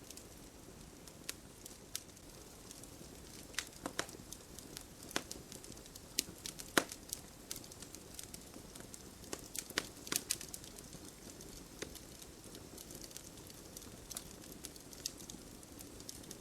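Campfire burning, wood crackling and popping in irregular snaps over a low steady hiss, with the sharpest pop about a third of the way in.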